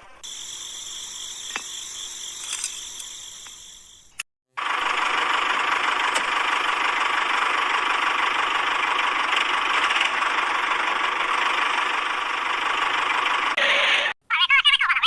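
Small electric motor of a DIY toy tractor or pump running with a steady whirring buzz, heard in separate edited takes. The first take is quieter with a few clicks and fades, and the second is louder and steady.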